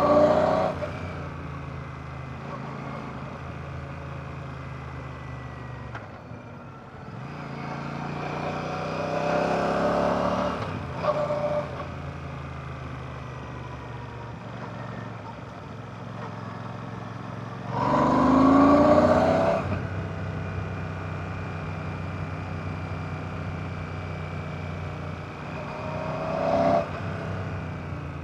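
Royal Enfield Classic 650's 648cc air/oil-cooled parallel-twin engine running under way. The pitch rises and the sound gets louder each time the throttle opens: about a third of the way in, loudest about two-thirds of the way in, and briefly near the end.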